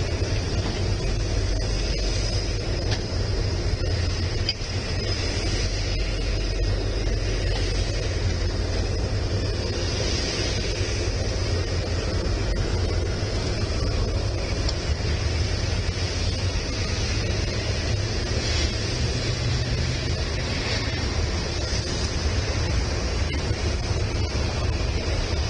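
Freight train rolling past: a steady low rumble of wheels on rail with an even hiss of rolling noise.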